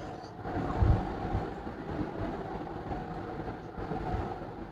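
A person chewing a mouthful of rice and pork with the lips closed, close to the microphone: soft, muffled low thumps over a low rumble, the loudest about a second in.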